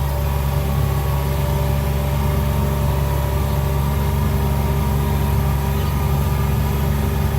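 A vehicle's engine running steadily with a constant low hum, holding an even speed.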